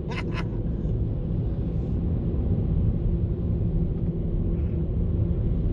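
Steady low rumble and hum heard from inside a car's cabin in an automatic car wash, with two short hisses just after the start.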